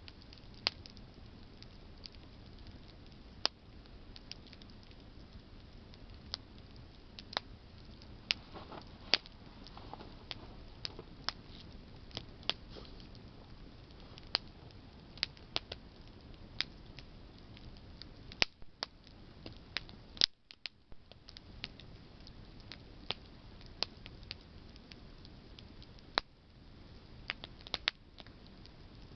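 Campfire of burning branches crackling: irregular sharp pops and snaps over a low steady hiss of the flames.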